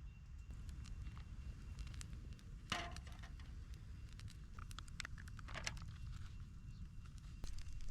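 Wood campfire crackling: scattered small pops, with two louder crackles about three and five and a half seconds in, over a low rumble.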